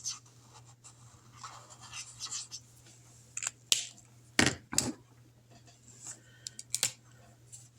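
Felt-tip marker scribbling on paper over a clipboard, colouring in a box, with several sharp taps and clicks, the loudest about four and a half seconds in.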